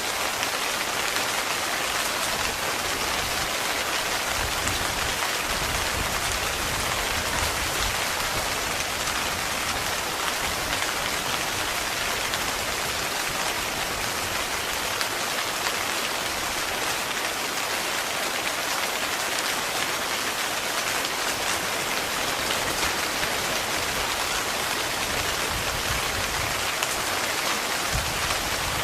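Heavy rain falling steadily on a tent, a dense, even patter with no breaks.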